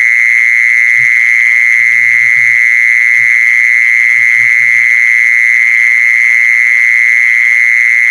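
Lure call for the female kmol: a loud, steady high-pitched trilling tone held on one pitch without a break. Faint short low sounds come a few times in the first half.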